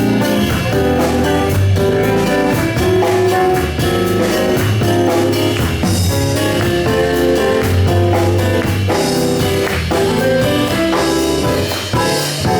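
A live band of keyboard, electric bass and drum kit playing the instrumental introduction to a worship song, with no singing yet.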